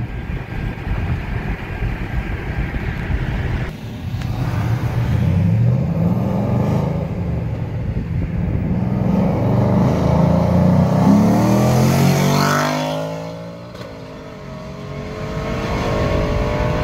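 Ford Mustang GT's 5.0 Coyote V8, with resonator and catalytic converters deleted, accelerating hard through the gears of a manual gearbox. The pitch climbs and breaks off at each shift. After a last rising pull it fades away about three-quarters of the way through, and a quieter engine note rises again near the end.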